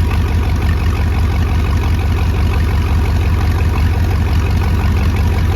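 Marine 5.7-litre V8 engine idling steadily during a warranty test run, with a deep, even low note.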